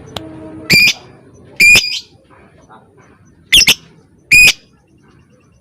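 Lovebird giving four short, shrill calls in two pairs, each pair about a second apart.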